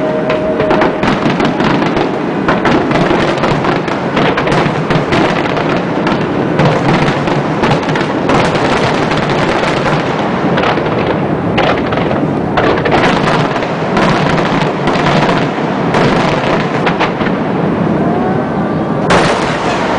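Fireworks display: a dense, continuous barrage of aerial shells bursting and crackling, with one especially loud bang near the end.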